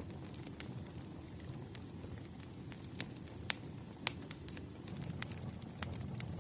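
Burning firewood: a steady low rumble of flames with scattered sharp crackles and pops from the logs, the loudest pair of pops about halfway through.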